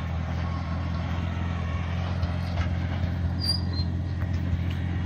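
Cub tractor engine running at a steady speed under work, with scattered light knocks and a brief high chirp about three and a half seconds in.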